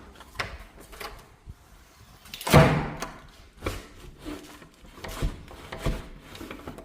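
A door that won't latch being worked and pushed shut: a series of knocks and rattles, with one loud bang about two and a half seconds in.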